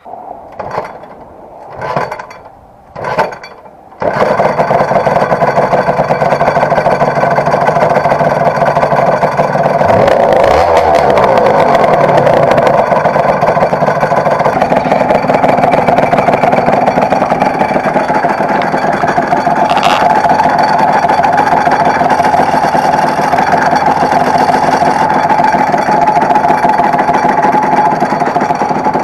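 Honda NSR250R (MC21) two-stroke V-twin engine being started on freshly fitted spark plugs. Three short bursts come first, then it catches about four seconds in and runs steadily. It revs briefly once around ten seconds in.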